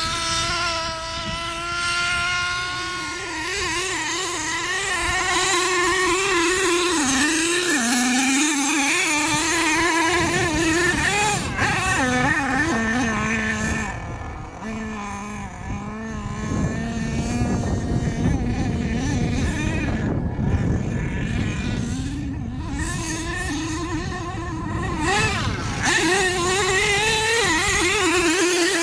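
Small two-stroke engines of large-scale RC trucks running and revving, the pitch rising and falling repeatedly as the throttle is worked. From about ten seconds in a steady low rumble of noise runs underneath the engine.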